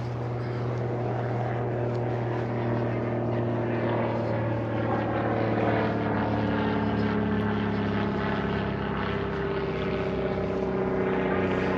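A steady engine drone with several held tones, its pitch sinking slightly over the second half.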